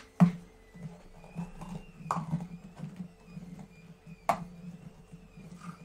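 Handling noise from hard plastic pour cups and paint containers: three sharp knocks about two seconds apart, with softer clatter and rubbing between them.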